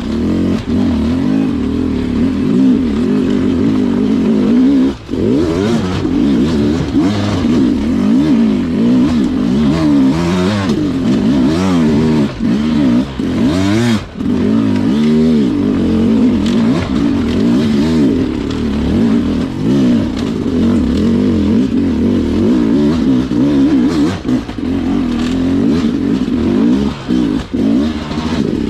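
Sherco two-stroke dirt bike engine ridden hard on technical terrain, the throttle opened and closed constantly so the engine note swings up and down every second or so, dropping away briefly a few times.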